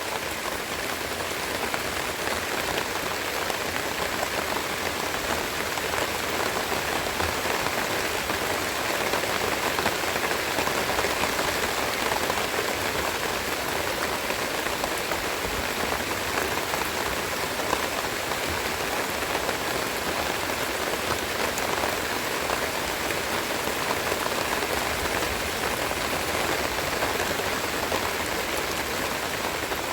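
Steady rain falling, a continuous even hiss dotted with the small ticks of individual drops.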